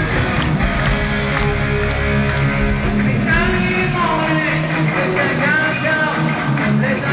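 A hard rock band playing live at an arena concert, with distorted electric guitars, bass and drums, heard from among the audience. The bass is heavy for the first couple of seconds, and higher pitched lines, singing or guitar bends, come in about three seconds in.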